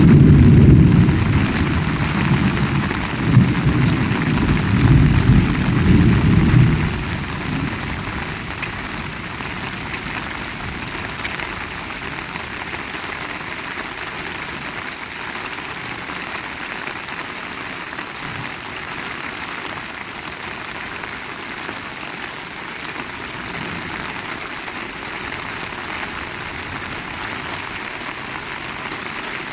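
Heavy rain falling steadily, with a low rumble of thunder that dies away about seven seconds in.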